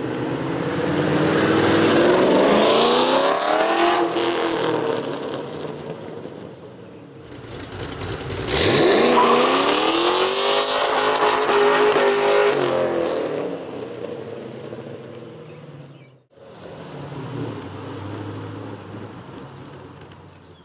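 2008 Ford Mustang Bullitt's 4.6-litre V8, breathing through long-tube headers, a catted X-pipe and MBRP Pro Series mufflers, revving hard under acceleration past the microphone. The pitch climbs and drops off twice, the second pull the loudest, then the exhaust note fades away.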